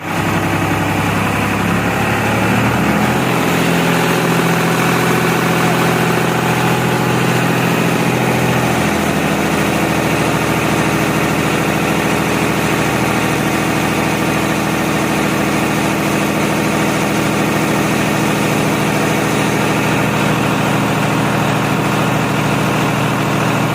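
Tractor engine running steadily, its note changing about nine seconds in and then holding even.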